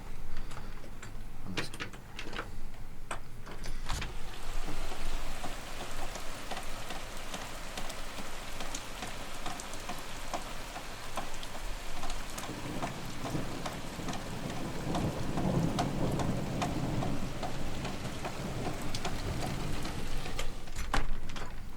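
Rain falling steadily. Scattered drops tick at first, then the rain fills in to a dense patter a few seconds in. About halfway through, a low rumble of thunder swells and then fades.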